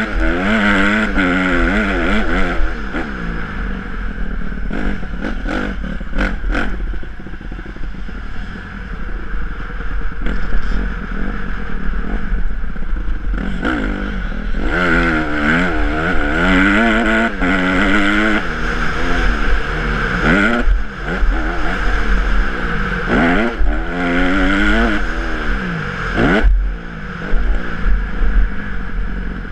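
Honda CRF150R's single-cylinder four-stroke engine revving hard and dropping back again and again as the motocross bike is ridden round the track, its pitch climbing in sweeps through the gears and falling off between them, with a steady low rumble underneath.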